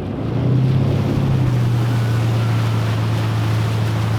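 Motorboat engine growing much louder within the first half second, then running steadily at speed, with wind and water rushing past.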